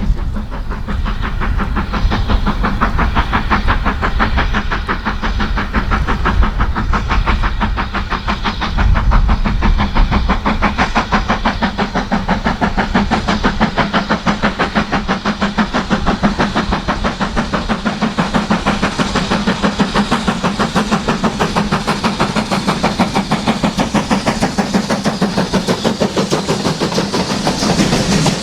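A steam-hauled train running past, with a fast, even rhythm of beats from the wheels and running gear throughout.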